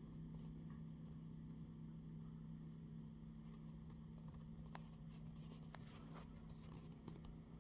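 Near silence: a steady low hum, with a few faint clicks and ticks in the second half.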